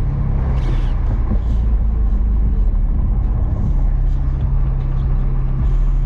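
Chevrolet Corvette C8 Stingray's 6.2-litre LT2 V8 running at a steady cruise, heard from inside the open-top cabin with wind and road noise.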